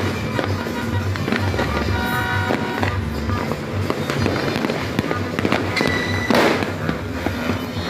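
Fireworks crackling and popping, with one louder burst about six seconds in, over music with a steady pulsing bass.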